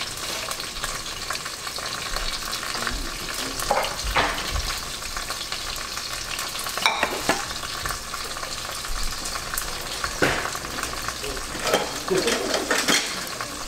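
Aromatics (onion, ginger, garlic, chili pepper and lemongrass) sizzling steadily as they sauté in oil and butter in a pot, the first stage of a tom yum broth. A few sharp knocks of the pot being stirred come every few seconds.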